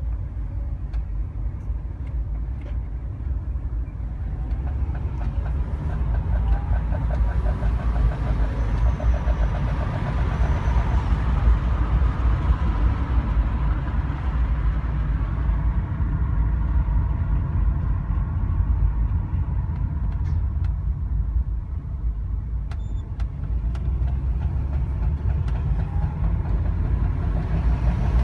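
2004 Subaru Forester XT driving, with a steady low rumble of engine and road noise that grows louder as it accelerates. About seven to eleven seconds in, a fast, even knocking comes through: the knock the owner places in the front left suspension or drivetrain, which occurs only when accelerating with the car cold.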